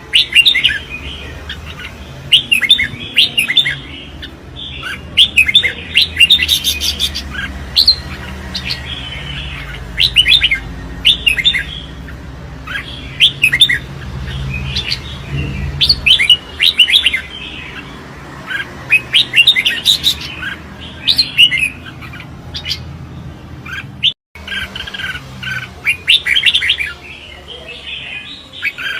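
Red-whiskered bulbuls in competitive song: short, bright, warbling phrases of quick chirping notes, repeated every second or two. A low rumble sits beneath the song for about the first half, and the sound cuts out for a moment about 24 seconds in.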